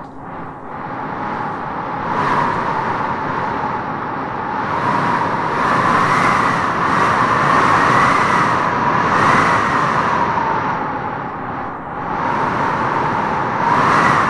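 Wind blowing in gusts with a howling whistle that wavers up and down in pitch. It swells about two seconds in and again through the middle and near the end.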